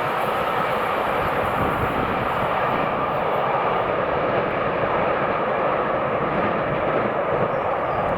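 A train running by: a steady, loud rumble of wheels on rail that cuts off suddenly near the end.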